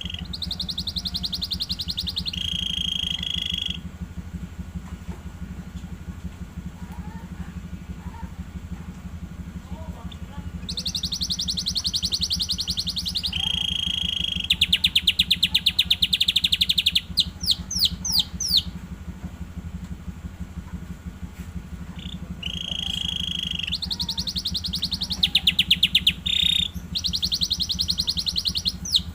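Young domestic canary practising its song: phrases of rapid trills separated by pauses of several seconds, with a run of quick sweeping notes in the middle. A steady low hum sits underneath.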